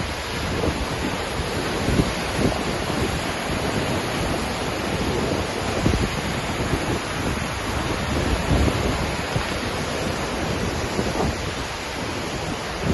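Waterfall crashing steadily, a dense roar of falling water, with gusts of wind buffeting the microphone.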